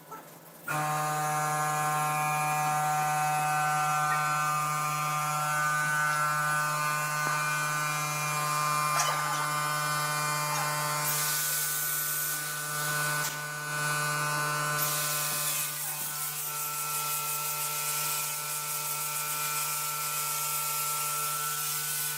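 An electric power tool's motor starts about a second in and runs at a steady speed, with a harsher hiss for a few seconds in the middle as it works the wood.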